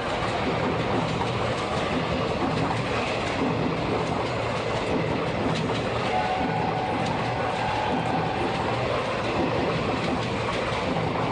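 A train running past, its wheels rumbling and rattling steadily on the rails, with a faint high held tone for a few seconds past the middle.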